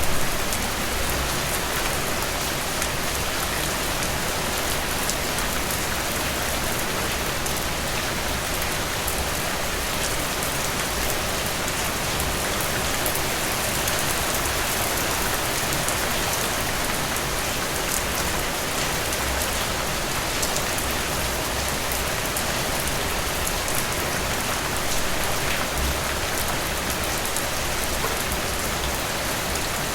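Steady rain, falling evenly with dense patter of drops and fine scattered ticks of individual drops.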